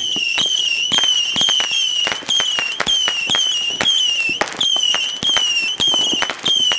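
Fireworks going off: a rapid, irregular crackle of firecracker pops under a high whistle that falls slightly in pitch and repeats about twice a second.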